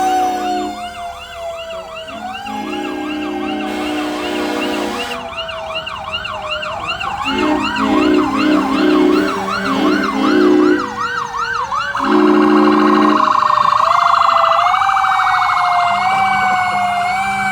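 Several emergency-vehicle sirens sounding at once on passing fire trucks: a slow rising-and-falling wail and a fast yelp, with a low horn blasting on and off several times.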